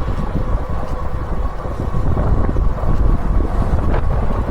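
Wind rushing and buffeting over the microphone of a moving e-bike, a steady low rumble, with a faint steady whine above it.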